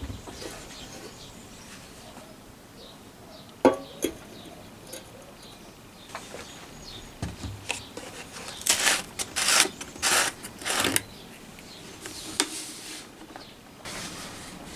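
Metal lantern parts being handled and worked at a bench: a sharp knock a few seconds in, then a cluster of short scraping or hissing strokes in the middle.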